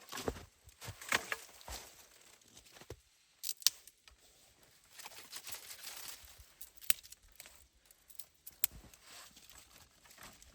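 Irregular crunching and rustling with a few sharp snaps, from someone moving about and handling things in snow.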